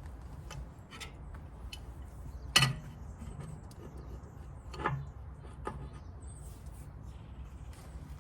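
Metal clinks and clanks of hand work taking apart a generator: scattered light clicks, a sharp metal clank about two and a half seconds in and a lesser one near five seconds, over a low steady hum.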